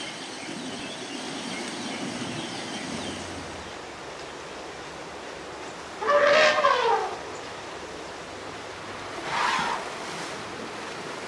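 Asian elephant giving a short trumpet call about six seconds in, falling in pitch, followed by a shorter, fainter call a few seconds later, over a steady background hiss.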